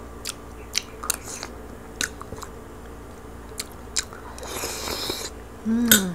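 Close-up mouth sounds of a person chewing roast lechon pig-head meat: wet clicks and smacks at irregular intervals, a longer crunching patch a little past halfway, and a short hummed 'mm' with falling pitch near the end.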